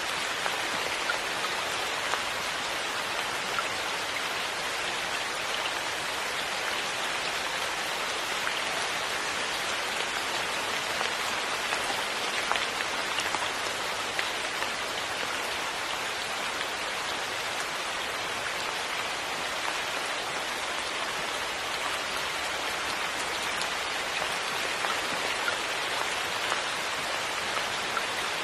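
Steady rain falling on a surface, a dense even hiss with scattered sharper drop ticks.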